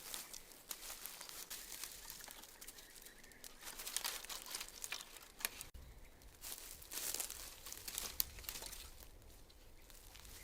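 Crinkling and rustling handling noise that comes and goes in bursts, with a few small clicks between.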